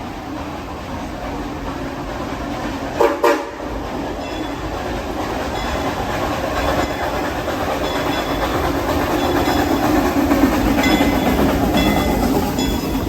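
Narrow-gauge steam locomotive of a theme-park railroad sounding two short whistle blasts about three seconds in, then running with its cars rumbling and clacking over the rails, growing louder as it nears.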